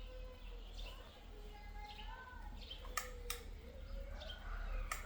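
Faint bird chirps over a steady low hum, with sharp clicks about three seconds in, again just after, and near the end.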